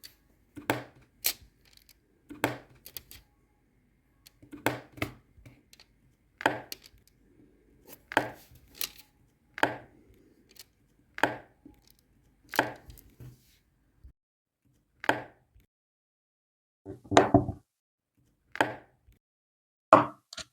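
Sharp taps and clicks from hands working on a diamond painting, one every one to two seconds, with a longer, louder clatter near the end.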